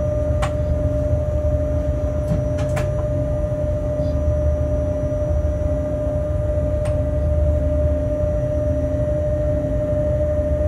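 Freight train heard from inside the locomotive cab while running: a steady low rumble of the wheels and running gear on the track with a constant mid-pitched hum over it, and a few faint clicks.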